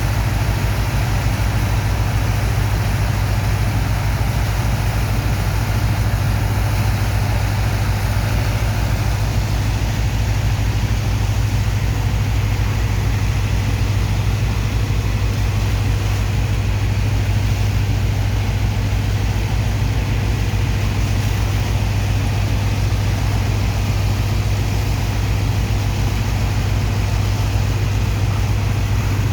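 Large diesel engine of a sand-dredging pump machine running steadily at constant speed, a deep drone with a fast even pulse and no change in pace.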